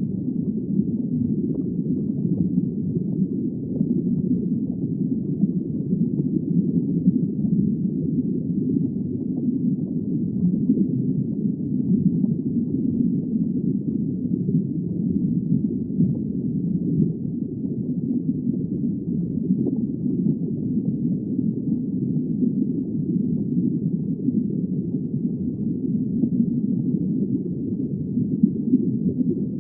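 Muffled underwater ambience: a steady, low rush of water with no high sounds and no distinct calls or clicks.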